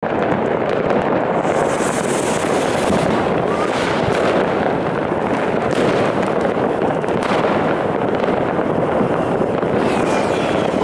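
Many fireworks and firecrackers going off at once in a dense, unbroken crackle of bangs, with a brief whistle near the end.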